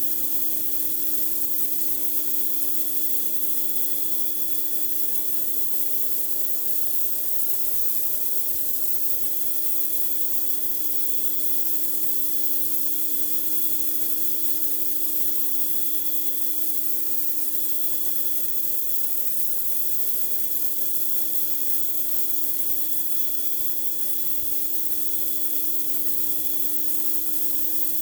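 Pressure washer blasting a driveway: a steady hiss of high-pressure water spray over the even hum of the washer running.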